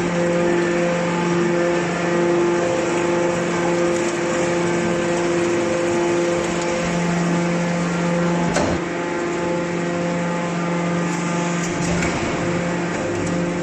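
Hydraulic scrap-metal baler running: a steady mechanical hum from its motor and hydraulic pump, with one sharp knock about eight and a half seconds in.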